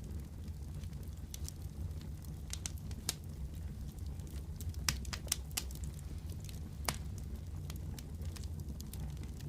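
Wood fire burning in a fireplace: a steady low rumble of the flames with sharp, irregular crackles and pops scattered throughout, a few louder pops around the middle.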